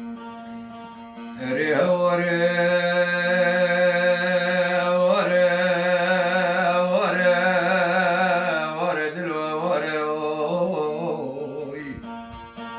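A male singer holds one long, wavering vocal phrase with heavy vibrato in a Kurdish folk song, over a steady plucked-string accompaniment. The voice comes in about a second and a half in and fades out near the end, leaving the strings.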